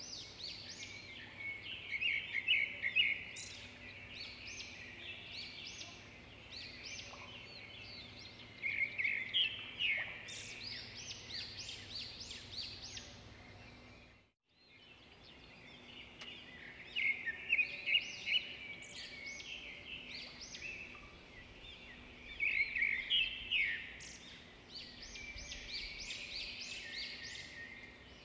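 Birds chirping in clusters of quick, high calls and trills, with a brief dropout to silence about halfway through.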